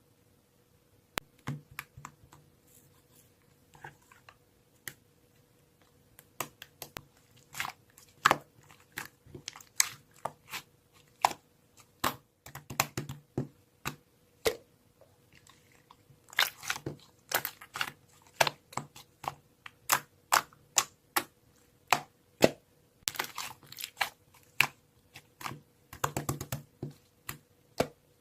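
Irregular quick clicks and taps, some coming in rapid clusters, over a faint steady hum.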